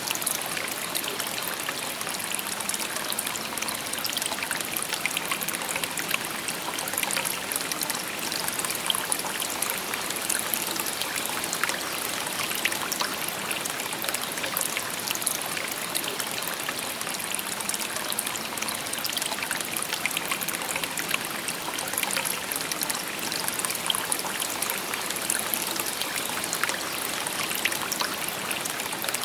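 Shallow river babbling over stones: a steady rush of water with many small splashes and trickles, even throughout.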